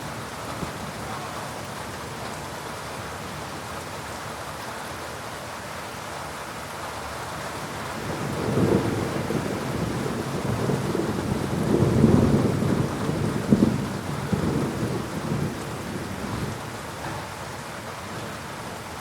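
Steady rain falling, with a roll of thunder building about eight seconds in, rumbling in several surges for about nine seconds, loudest around the middle, then fading back under the rain.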